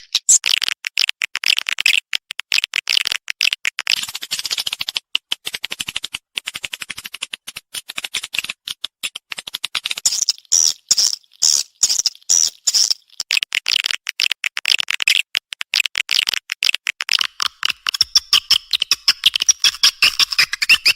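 Swiftlet 'respon' call sound: a fast, dense stream of sharp chirps and clicks, with a higher, shriller run about halfway through.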